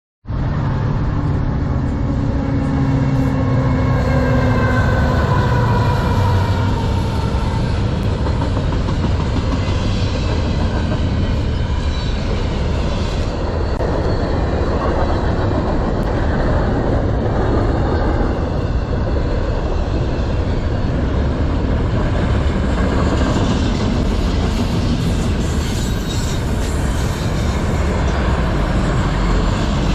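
A CN intermodal freight train rolling by: the lead locomotives pass with a few tones that slowly fall in pitch over the first several seconds, then a steady rumble of the train's cars continues.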